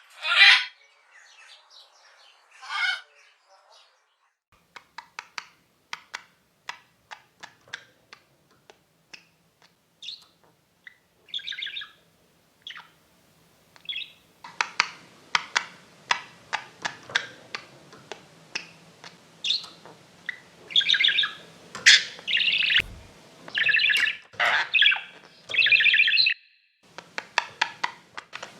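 Pet parrots calling: loud squawks at the start, then a sparse run of short, quick chirps and clicks. From about halfway the chirping grows dense, with loud calls, and stops briefly near the end.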